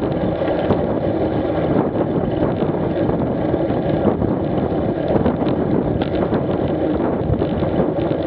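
Wind rushing over an action camera's microphone during a motorcycle ride, with the engine running steadily underneath.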